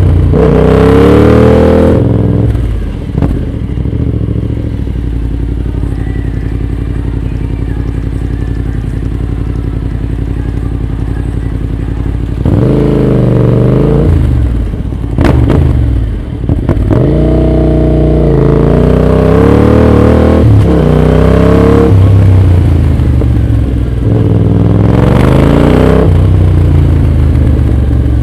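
Motorcycle engine through an aftermarket exhaust, revved and then settling to a steady idle about two seconds in. Partway through it is revved again several times, the pitch rising and falling with each blip.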